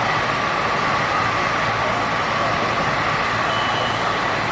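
Fire truck running steadily, a constant mechanical noise with a steady high tone over it.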